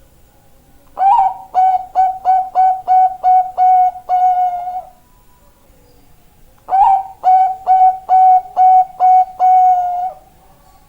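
Bangkok-type zebra dove (perkutut) singing two cooing phrases. Each opens with a rising note, then runs through a quick stutter of short, even coos and closes on a longer held coo.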